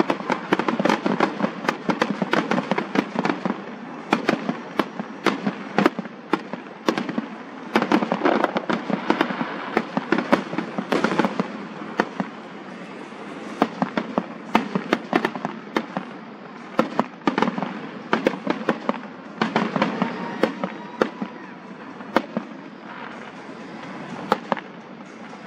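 Aerial fireworks going off in quick, irregular succession: sharp bangs and crackle, thickest in bursts here and there with short lulls between.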